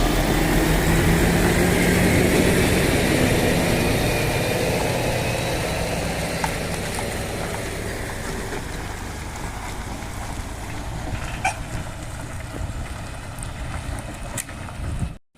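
Heavy truck engine pulling away, its steady hum slowly fading as it drives off.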